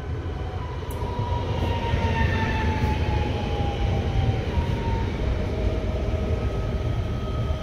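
Electric multiple unit passing close by on the track, a heavy rumble of wheels on rail with the electric traction whine gliding down in pitch as it goes by.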